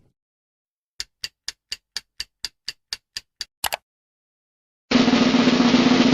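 Edited sound effects: a run of sharp ticks, evenly spaced at about four a second, ending in a quick double tick. About five seconds in, a loud, continuous noisy sound with a steady low hum starts.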